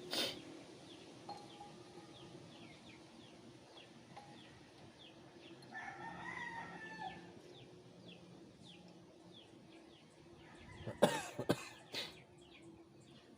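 A rooster crows once, about six seconds in, over a background of repeated short high chirps. Near the end come a few sharp knocks, the loudest sounds here.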